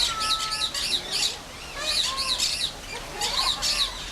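Several birds calling: runs of sharp, high chirps, three or four a second, coming in groups about every second, with a few lower whistled notes beneath them.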